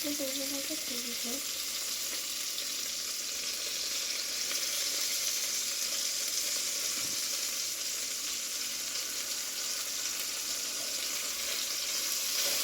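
Chicken pieces frying with a steady sizzle.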